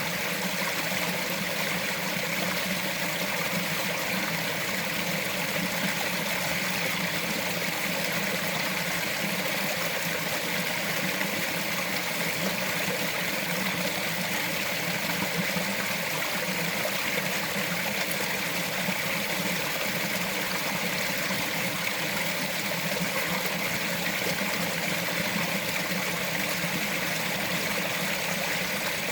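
Small mountain stream flowing and trickling over rocks, a steady even rush of water.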